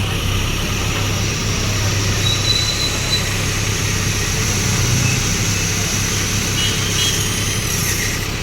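Heavy construction machinery running steadily: a constant low diesel engine hum with mechanical noise over it.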